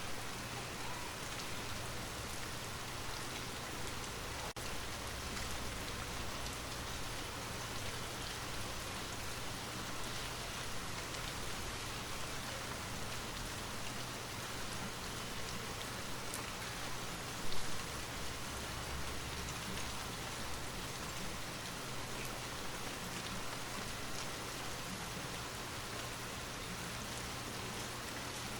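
Steady rainfall, a dense even patter of drops on a surface. A little past halfway through there is one short, louder low thump, followed by a brief low rumble.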